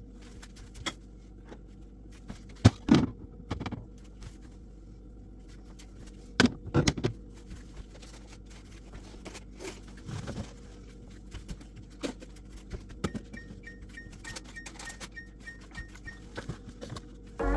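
Scattered knocks and clatters of hard objects being handled and set down, as when fridge shelves, drawers and containers are moved during cleaning. A faint, rapid high beeping runs for a few seconds past the middle.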